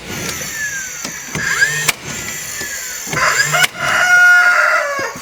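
Rooster crowing once, a long call starting about three seconds in, after some shorter sliding chirps.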